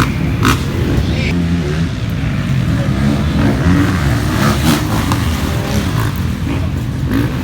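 Motocross bike engines running and revving.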